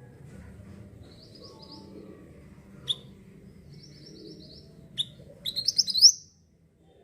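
A mantenan bird singing: two short, quick high trills, a sharp chip about three seconds in and another about five seconds in, then a louder rapid run of rising notes near the end.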